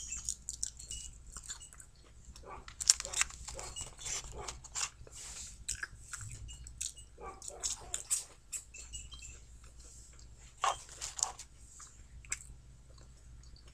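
Close-up chewing and biting of soggy McDonald's french fries, irregular wet mouth clicks and smacks, with light rustling of the paper fries carton. The loudest moments come at the start, about three seconds in, and near eleven seconds.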